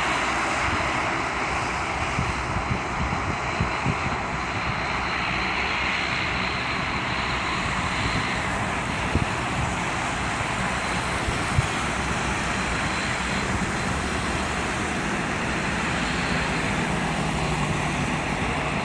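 Twin turboprop engines of a Bombardier Q400 airliner running steadily as it taxis, a continuous rush with a faint steady high whine.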